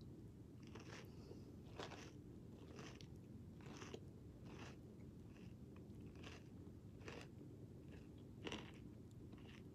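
Mouthful of crunchy cinnamon cereal squares being chewed, a crisp crunch with each bite, a little under once a second.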